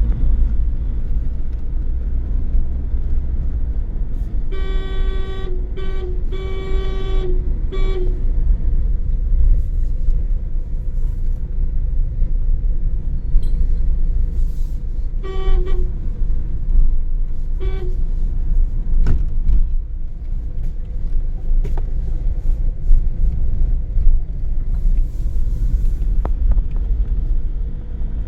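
Steady low road rumble of a moving car, with a vehicle horn sounding several honks in a row about five seconds in, then two short toots later.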